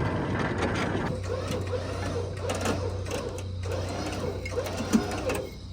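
A small motor whirring steadily, with a low hum under many small rattling clicks.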